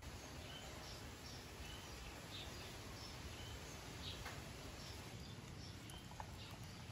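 Faint steady background hiss with short, high bird chirps scattered through.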